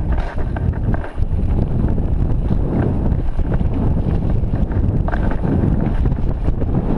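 Wind buffeting the microphone of a back-mounted action camera as a mountain bike rides down a downhill trail, with frequent small knocks and rattles from the bike over rough ground.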